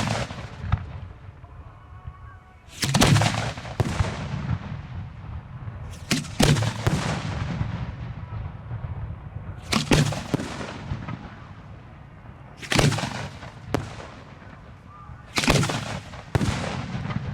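Fireworks going off at close range: a loud bang about every three seconds, each trailing off in a rumble for a second or two, with a few smaller pops in between.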